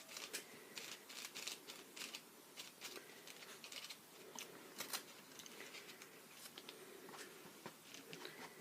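Faint, irregular small clicks and taps from handling painting supplies: a palette, a paint bottle and brushes.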